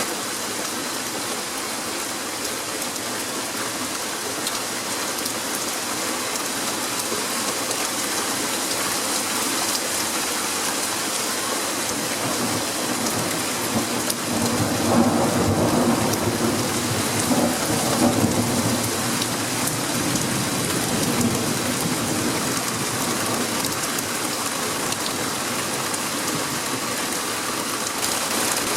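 Heavy rain falling steadily and hitting surfaces, with a roll of thunder rumbling for several seconds about halfway through.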